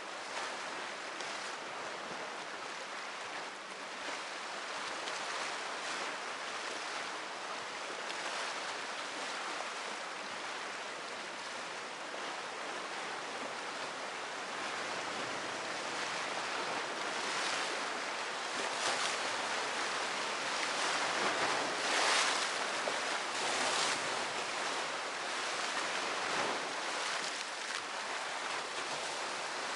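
Sea waves breaking and washing in as a continuous rush of surf, growing louder past the middle with several brighter surges.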